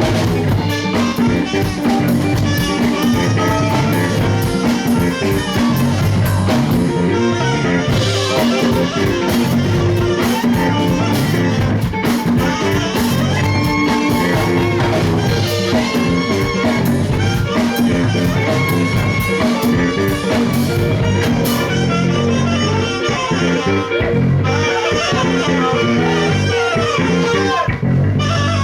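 Live band music: guitar playing over a drum kit in a rock or blues style.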